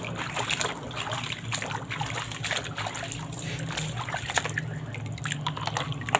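Water splashing and trickling in quick, irregular bursts as a muddy toy is rinsed by hand.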